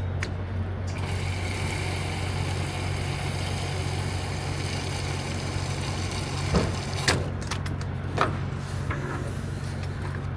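Truck-stop diesel pump filling a semi truck's tank: a steady low hum, with a hiss of fuel flowing that starts about a second in and stops around seven seconds, followed by a few sharp clicks as the tank is topped off.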